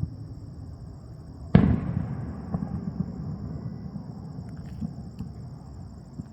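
A fireworks aerial shell bursts with one loud boom about a second and a half in, its rumble echoing and fading away over the next few seconds, with a few smaller pops and crackles scattered after it. A steady high insect trill, like crickets, runs underneath.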